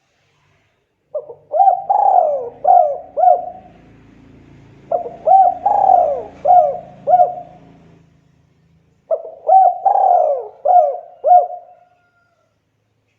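Spotted dove (tekukur) cooing: three phrases a few seconds apart, each a quick run of about five coos in which the third note is the longest and loudest.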